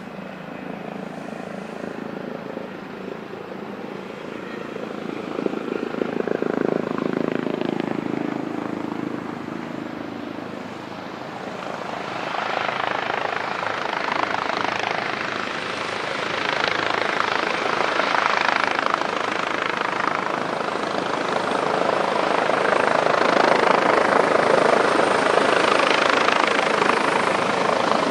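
Airbus Helicopters H145 D2 helicopter approaching, its rotor noise growing steadily louder.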